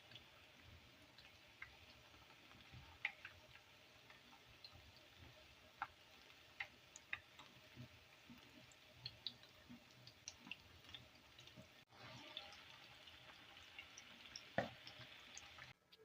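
Faint, irregular small clicks and pops over a low steady hiss.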